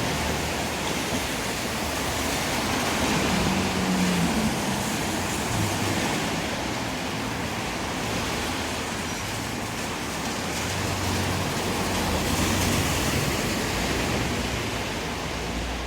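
Steady, even rushing noise of a rainy street, with faint low hums coming and going.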